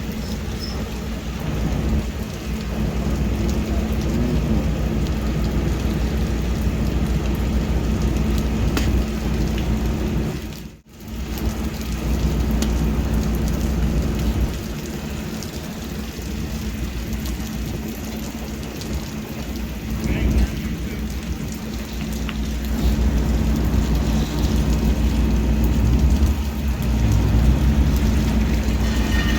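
Steady rain falling, over a low rumble. The sound drops out for a moment about eleven seconds in.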